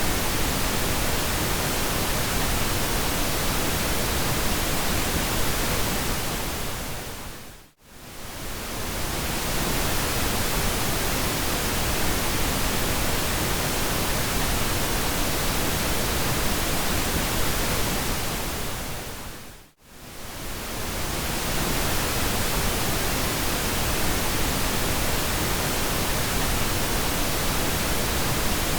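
Steady pink noise, an even hiss across all pitches. It briefly fades down to near silence and back up twice, about eight and twenty seconds in.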